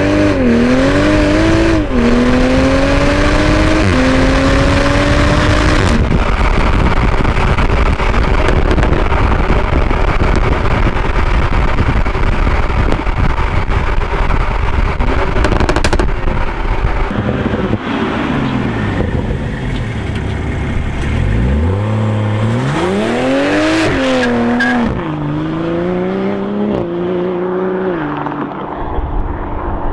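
Toyota GR Supra engine and exhaust under hard acceleration, the pitch climbing and dipping with each quick upshift. Through the middle stretch road and wind noise dominate. Then the revs fall, and from about three quarters of the way in the car pulls hard again, its pitch rising through two or three fast shifts.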